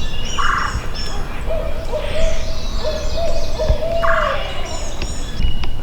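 Owl hooting: a run of low hoots, stepping slightly in pitch, lasting about three seconds from about a second and a half in, with songbirds chirping.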